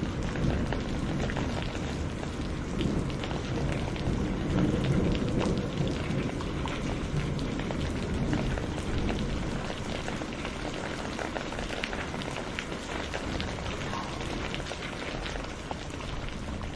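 Steady rain with many small drop impacts, under a low rumble of distant thunder that swells a few seconds in and then eases.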